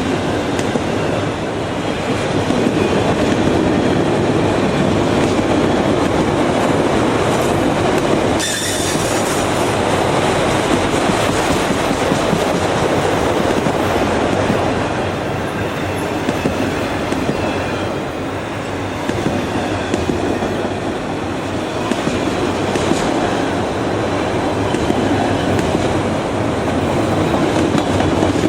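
Railroad cars rolling past on steel rails: a steady loud rumble with the clickety-clack of wheels over rail joints and a brief sharp burst about eight seconds in.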